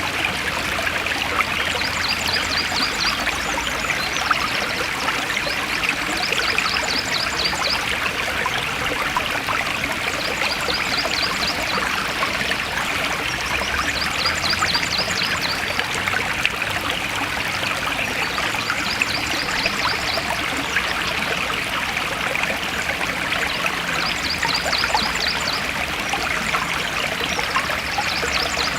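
Stream water flowing and trickling steadily, with a short, rapid high trill repeating about every four seconds.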